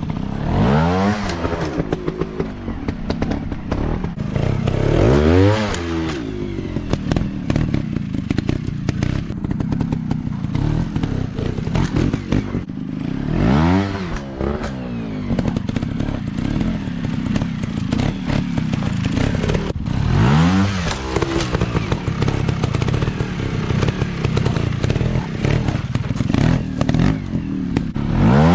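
Off-road dirt bike engines running continuously, with the throttle opened and shut in short bursts five times, each a quick rise and fall in engine pitch.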